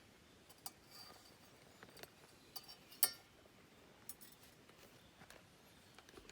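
Scattered light clinks and clicks, a few with a short ringing tone, the loudest about three seconds in.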